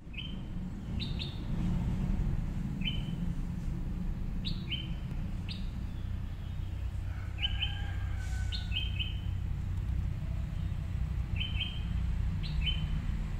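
A small bird chirping: short, sharp notes, single or in quick pairs, about once a second, over a steady low rumble.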